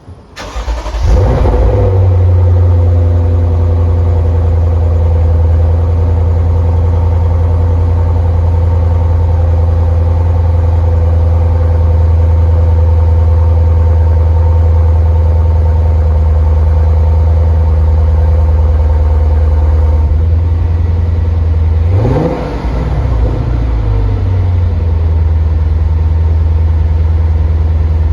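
Lexus RC F's 5.0-litre V8 starting: it catches within the first second with a short rev flare, then settles into a loud, steady idle. About 22 seconds in the idle dips briefly and recovers.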